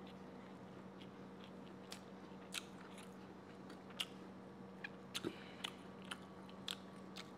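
A person chewing a mouthful of biryani, with soft mouth clicks and smacks at irregular intervals over a faint steady hum.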